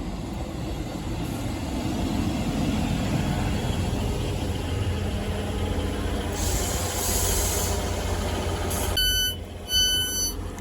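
Class 158 diesel multiple unit running at the platform as it arrives. There is a hiss of air about six and a half seconds in, then two short electronic beeps near the end.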